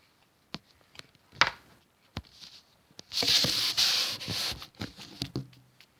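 Pet hamster making an odd sound that its owner finds strange: a few scattered sharp clicks, then a noisy hissing burst about three seconds in that lasts about a second and a half, followed by a quick run of clicks.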